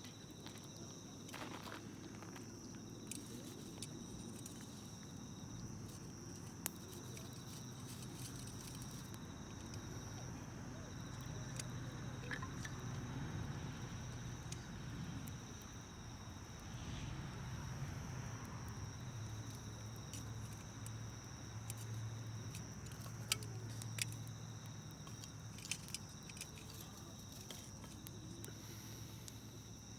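Wood campfire burning with scattered sharp crackles and pops and a low rumble of flame, a few pops louder than the rest near the end. Insects, likely crickets, chirp steadily in the background.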